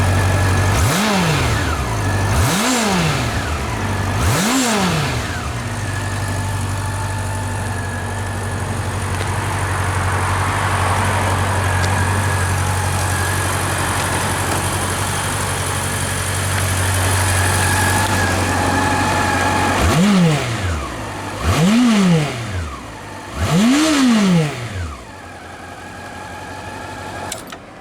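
Honda CB400 Super Bol d'Or's inline-four engine, breathing through an aftermarket exhaust, idling steadily. It is blipped three times in quick succession near the start and three more times later, each rev rising sharply and falling back to idle.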